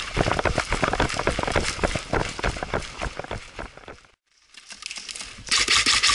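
Quick footsteps of a person running, a fast train of sharp steps. They cut out about four seconds in, and near the end a loud rubbing and rustling close to the microphone takes over.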